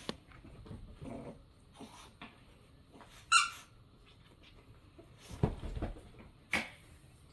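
A small Yorkshire terrier playing with plush toys: soft rustling and scattered thumps, with one short high-pitched squeak about three seconds in and a cluster of low thumps a couple of seconds later.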